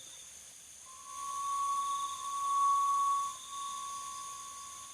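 A single steady high tone, like a whistle, starting about a second in and holding for several seconds, with a short dip in the middle. Crickets chirp faintly underneath.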